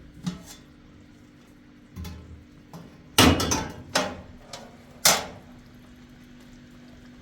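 A series of irregular knocks and bangs with short ringing, the loudest about three seconds in and another about five seconds in, over a steady low hum.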